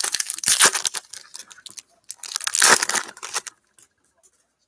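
A foil trading-card pack from a Panini football box torn open and its wrapper crinkled, in crackly bursts over the first second and again, loudest, from about two to three and a half seconds in.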